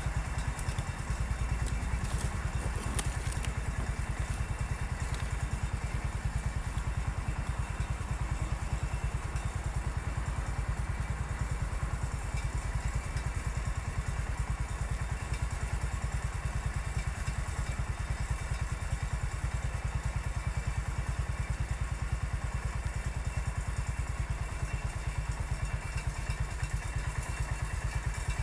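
Engine of an MF 14 crawler bulldozer running steadily, with an even, fast low pulse and no big changes in speed.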